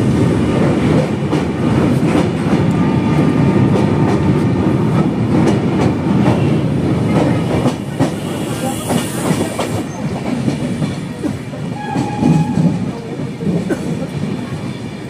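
The 12335 Bhagalpur–Lokmanya Tilak Terminus Express running on the track, heard from inside a coach: a steady rumble with the clickety-clack of the wheels over rail joints. The noise eases somewhat about halfway through.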